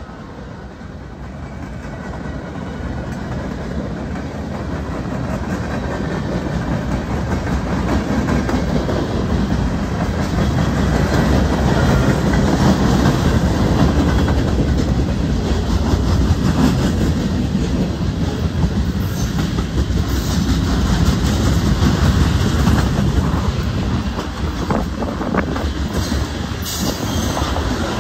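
Freight train's cars rolling past, a steady rumble of steel wheels on rail with clicks as the wheels cross rail joints, growing louder over the first ten seconds or so.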